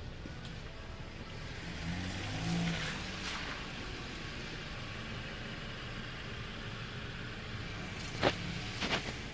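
A car's engine running with a steady low rumble, rising briefly a couple of seconds in, followed by two or three sharp knocks near the end.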